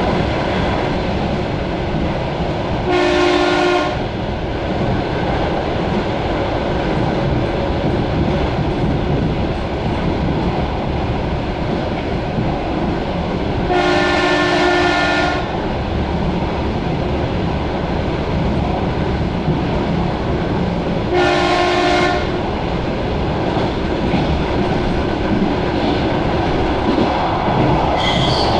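Suburban electric train running, heard from inside the carriage. A horn sounds three times over the running noise: a blast about three seconds in, a longer one around fourteen seconds, and a shorter one just past twenty-one seconds.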